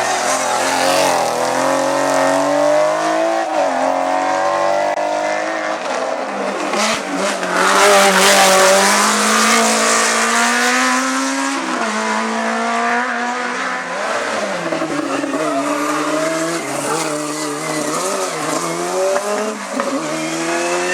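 Hillclimb race car's engine revving hard up through the gears and back down as it drives past, its pitch climbing and dropping with each shift; loudest about eight seconds in as it comes closest.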